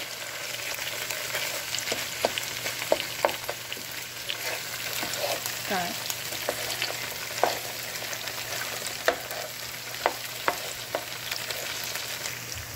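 Sliced onions, tomatoes and green chilies frying in oil in a pan with a steady sizzle, while a wooden spoon stirs them and now and then taps against the pan.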